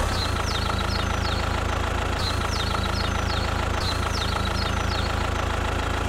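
An engine running steadily at idle, with an even drone. Clusters of short, high, falling chirps repeat about every second and a half.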